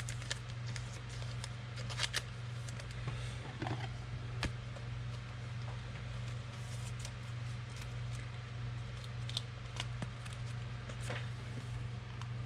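Trading cards and pack wrappers being handled, with scattered light clicks and rustles over a steady low hum.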